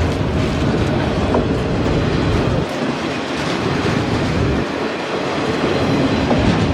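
A train passing close by: a steady, loud run of wheels on rails.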